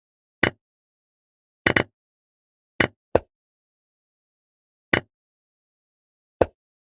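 Chess app piece-move sound effects: six short wooden clicks at uneven intervals, one of them a quick double click, with dead silence between, as moves are played one after another.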